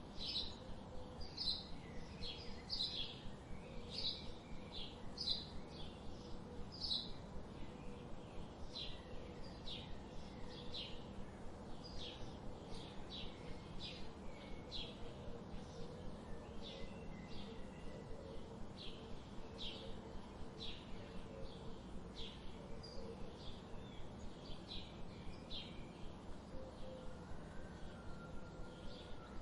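Wild birds chirping: short high chirps in quick succession over a steady low background hiss.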